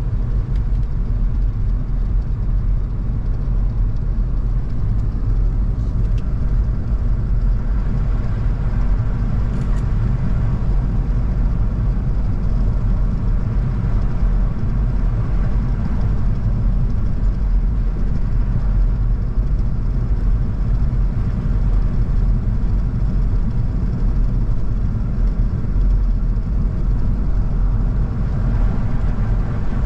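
A car driving at a steady pace: an even rumble of engine and road noise that holds level throughout, with no sudden events.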